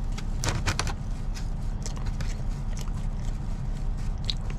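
A person chewing food, with short wet clicks and smacks, the busiest stretch about half a second in. A steady low hum runs underneath.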